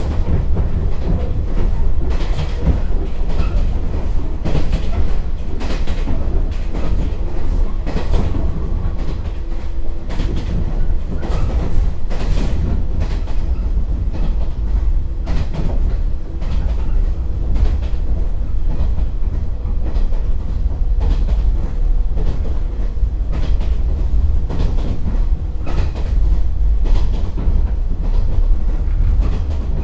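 Interior running sound of a JR 115-series EMU car (KuHa 115-552) on jointed 25 m rail: a steady low rumble with the rattling of its bogies, which is typical of this car type, and repeated clickety-clack as the wheels cross rail joints at uneven intervals.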